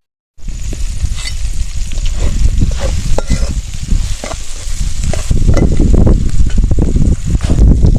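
Curry of tomato and coriander frying in a pan, sizzling while a spoon scrapes and stirs it in irregular strokes. The sound cuts in after a brief silence at the start.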